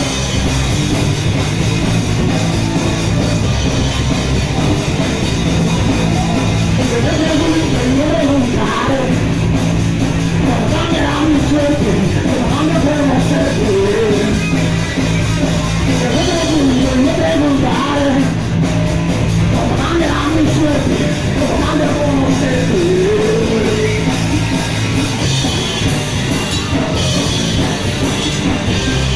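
Punk rock band playing loud and steady, with a singer's voice coming in about seven seconds in.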